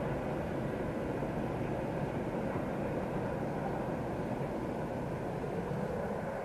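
Freight train rolling past on the rails with a steady rumble of wheels and wagons. It eases slightly near the end.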